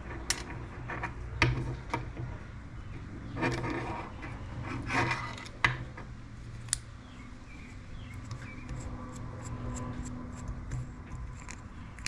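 Small metal parts of a scissor-style knurler tool being handled and refitted by hand: scattered metal clicks and clinks with a few short scraping rubs, over a low steady hum.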